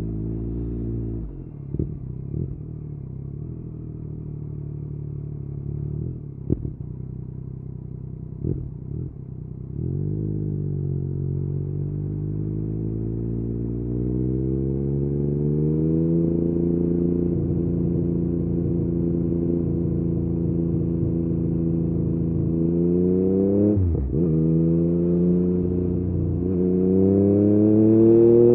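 Yamaha MT-09's three-cylinder engine through an Akrapovic exhaust, heard from the rider's seat. About a second in the revs drop to a low, steady note with a few sharp cracks, then climb in stages as the bike pulls away through the gears. Near the end there is a brief dip at a gear change, and the revs rise again.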